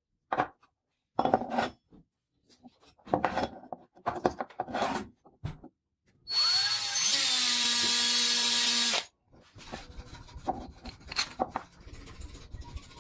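Clattering handling noises, then a small electric power tool spins up and runs for about three seconds before stopping abruptly. A fainter scratching follows.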